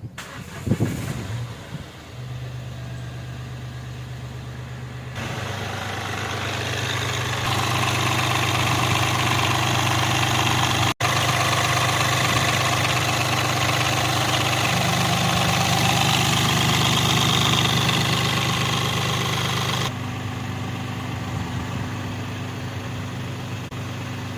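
Mahindra Bolero Power Plus three-cylinder diesel engine starting about a second in and then running steadily after its overhaul. It is held at a higher speed from about 5 to 20 seconds, then drops back toward idle.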